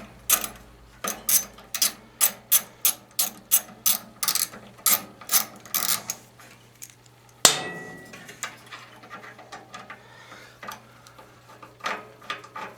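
Ratchet wrench clicking in a steady run of about three clicks a second while loosening a carburetor mounting fastener on a small engine. A single loud metallic clank about seven seconds in, then a few faint clicks.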